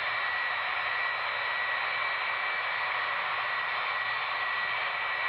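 Aircraft jet engine running steadily: an even rushing noise with a thin, constant high whine.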